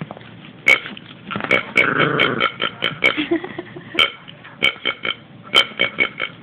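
Miniature pinscher making a quick, irregular series of short, sharp throaty sounds, with a longer, rougher one about two seconds in.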